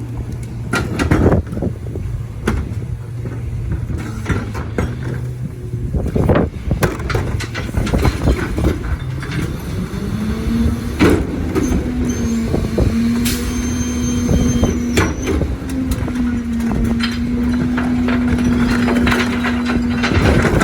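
Crane Carrier CNG rear-loader recycling truck running, with repeated knocks and clatter. About ten seconds in, its engine note rises to a higher steady pitch and holds there. There is a brief high squeal a little after that.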